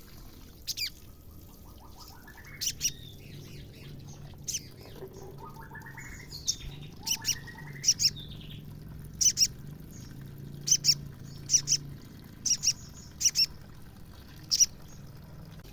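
Female sogon bird calling: sharp, very short high chips repeated about once a second, with two rising trilled phrases in the first half.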